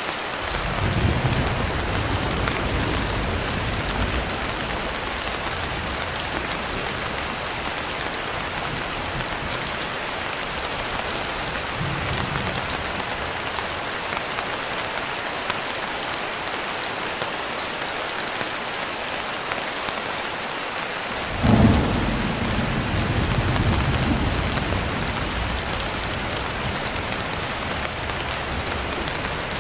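Steady heavy rain hissing on surfaces, with rolls of thunder: a low rumble in the first few seconds, and a louder sudden clap about two-thirds of the way in that rumbles on for several seconds.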